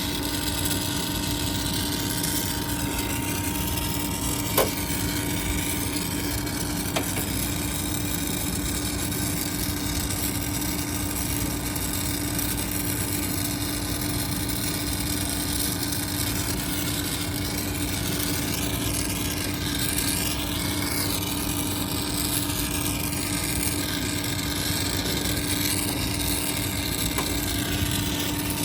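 A machine running steadily with a low hum and a hiss, with two sharp clicks a few seconds in.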